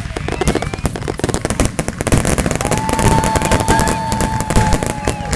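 Fireworks going off in a dense, rapid crackle of pops, like a long string of firecrackers. A faint steady tone joins about halfway through.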